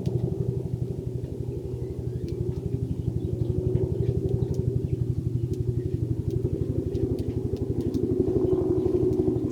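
An engine running steadily at idle, a low hum with a fast, even pulse.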